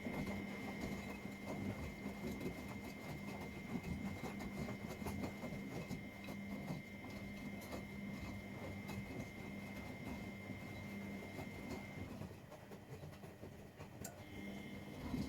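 Washing machine drum turning during a wash cycle: a steady motor hum with a high whine over the dense churning of the tumbling load. The motor stops about twelve seconds in and starts again after a two-second pause, as the drum reverses direction.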